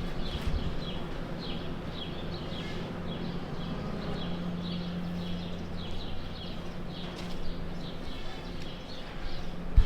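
Cattle-barn ambience: small birds chirping over and over above a steady low hum, with a sharp knock near the end.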